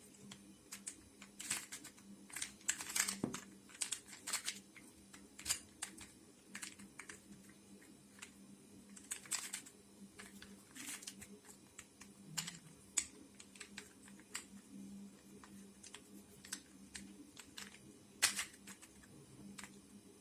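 Irregular plastic clicks and clacks of a resin 3D-printed 3x3x3 twisty puzzle cube as its layers are turned by hand. A few louder clacks come about three seconds in and near the end.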